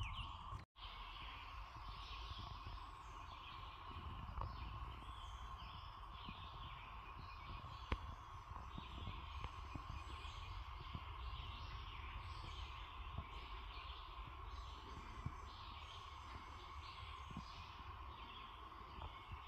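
Chorus of cicadas making a steady, even drone, with birds chirping over it throughout.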